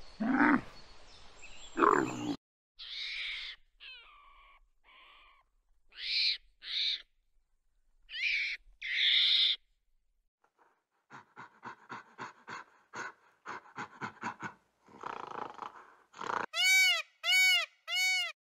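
A run of different animal calls in turn: low cooing at first, then a set of hoarse, harsh calls. After a short gap comes a quick rattle of clicks, and near the end four short whistled calls that rise and fall.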